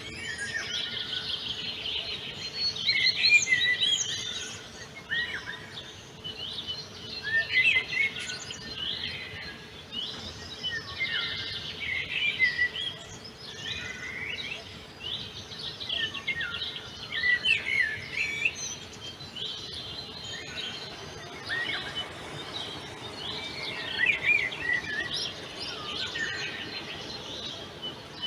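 Several songbirds singing and chirping together, a busy chorus of short, quick warbling phrases that come every second or two.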